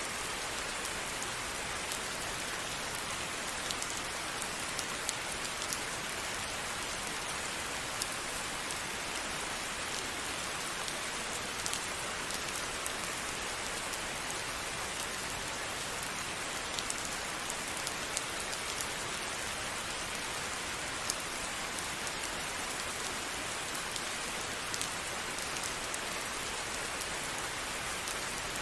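Steady rain falling, a constant hiss with many individual drops ticking sharply on a surface throughout.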